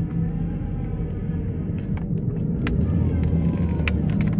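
Ford C-Max hybrid running with its gas engine on: a steady low rumble with a faint whine over it. The mechanic believes the whine comes from the generator motor and worn bearings in a failing hybrid transmission that needs replacing.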